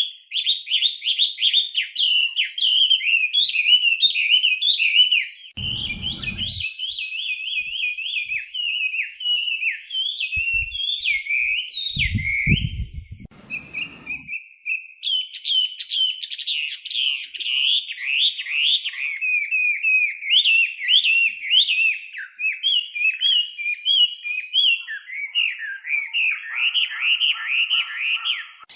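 Chinese hwamei (a laughingthrush) singing: a loud, near-continuous run of rapid, varied whistled phrases that keeps changing pitch. A few low thuds come about a fifth of the way in and again around the middle.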